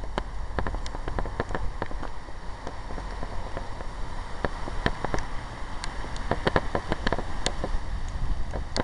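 Rain falling, heard as a steady hiss with many irregular sharp ticks of drops landing close to the microphone, over a low wind rumble on the microphone.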